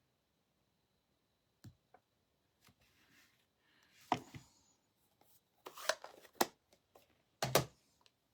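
Scattered taps and knocks of rubber stamping: a stamp being inked on a Cherry Cobbler ink pad and pressed onto card stock. The first sharp tap comes a little under two seconds in, and the loudest knocks come near the middle and towards the end.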